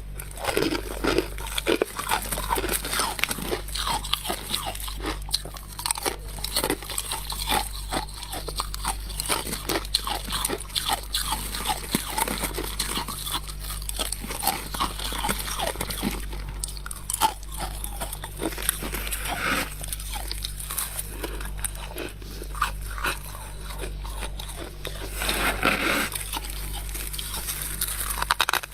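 Freezer frost being bitten and chewed close to the microphone: a dense, irregular run of crunches, with a few louder bites.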